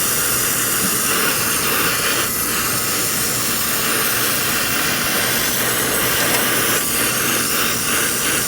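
Acetylene brazing torch burning with a steady rushing hiss, heating the compressor's suction and discharge line joints to unbraze them.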